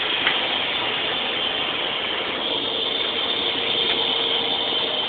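Heavy CNC lathe running during machining: a steady, dense mechanical noise with a constant hum, and a faint click or two.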